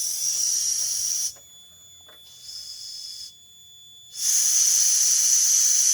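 Steam hissing with a thin high whistle from a Doll 360 live-steam ship's engine plant under high boiler pressure. The hiss cuts out sharply about a second in and comes back louder about four seconds in.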